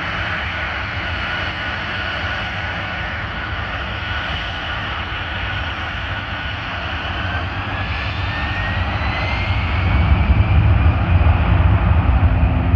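Jet airliner engines running, with a whine that climbs in pitch about seven seconds in and the sound growing louder near the end as the engines speed up.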